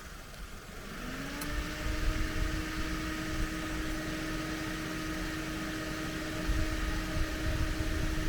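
An engine revs up about a second in and holds a steady pitch under load, with a low rumble beneath it.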